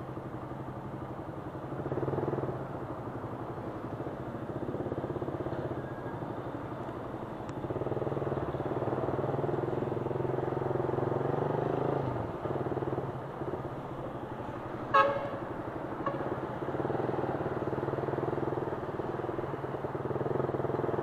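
Suzuki Raider 150's single-cylinder four-stroke engine running under way, its pitch rising and dipping as the bike pulls away and changes speed. A vehicle horn toots once, briefly, about three-quarters of the way through.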